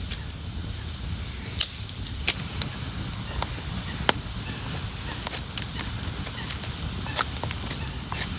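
Wood campfire burning on the ground, crackling with a dozen or so irregular sharp pops.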